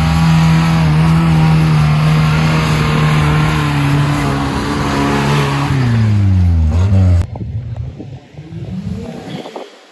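Vehicle engine running loud and steady, its pitch falling about six seconds in, then cut off suddenly, leaving fainter engines revving up and down.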